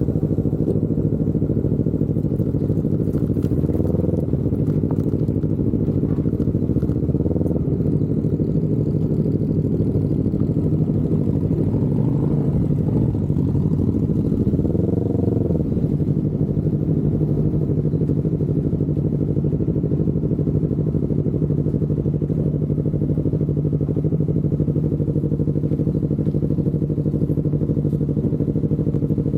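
Yamaha R25's parallel-twin engine running steadily, with a brief rise and fall in engine pitch about halfway through, then holding an even note.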